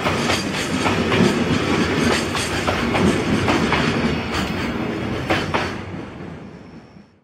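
Freight train hauled by an EF64 electric locomotive rolling past, its wheels clacking rhythmically over the rail joints. The sound fades and then cuts off abruptly near the end.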